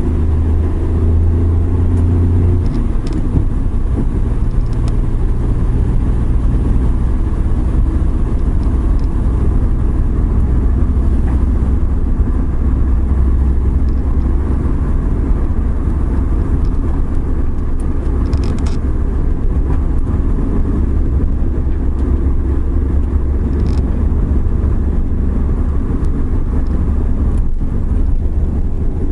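Suzuki Every Wagon minivan driving on a wet road: a steady low drone of engine and road noise with an even hiss of tyres over it. The low drone steps down slightly in pitch about two and a half seconds in.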